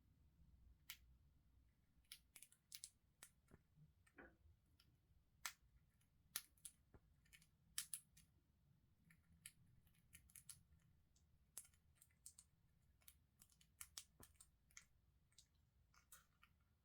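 Parrot eating: faint, irregular sharp clicks and crunches of its beak working food, a few per second with pauses.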